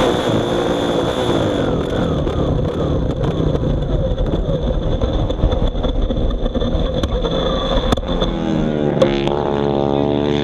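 Small engine running steadily, its pitch dipping and rising again near the end as the throttle changes.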